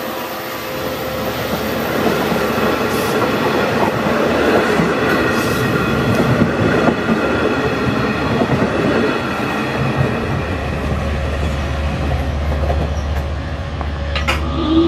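Long Island Rail Road diesel train passing close by, its wheels clattering over the rail joints with some wheel squeal. A steady low hum comes in about three-quarters of the way through.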